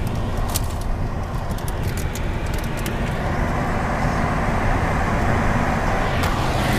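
Outdoor air-conditioning or heat-pump unit running, a steady fan and motor hum under a rush of air, while it is at risk of freezing up in the snow.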